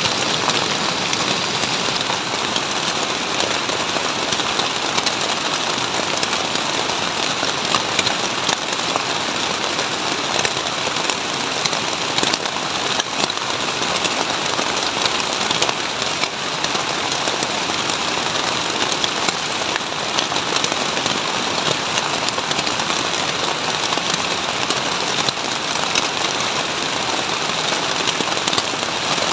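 Heavy rain falling steadily, with a dense scatter of drops striking close by.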